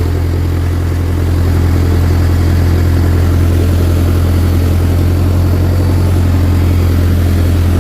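Bulldozer's diesel engine running at a steady speed, a deep, even drone.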